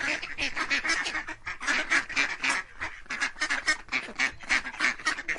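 Domestic white geese honking: a rapid, overlapping run of short calls, several a second.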